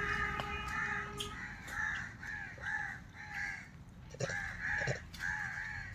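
Crows cawing repeatedly, a string of short harsh caws, some in quick pairs.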